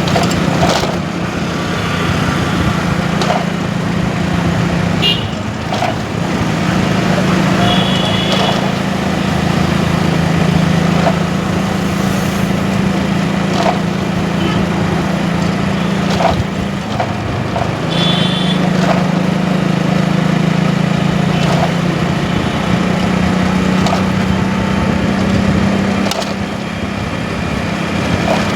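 Motorcycle engine running on the move through city traffic, its note stepping up and down as the speed changes, over road and wind noise. Short horn honks sound twice, about a third and about two-thirds of the way through.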